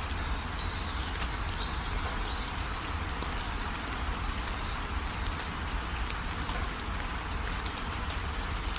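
Steady rain with drops pattering, and small birds giving short high chirps now and then, over a steady low rumble.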